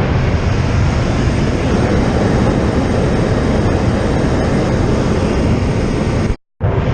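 Loud, steady drone of a PAC 750XL's Pratt & Whitney PT6 turboprop engine and propeller, heard from inside the cabin. It drops out for a moment near the end.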